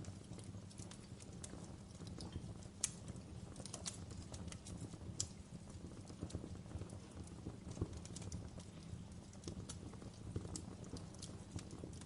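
Wood fire crackling in a fireplace: irregular sharp pops and snaps, a few louder ones, over a low steady rumble of the flames.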